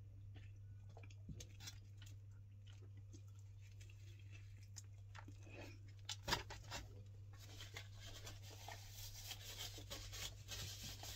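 A person chewing a mouthful of beef burger: faint, soft mouth clicks and crunches, with one louder click a little past halfway.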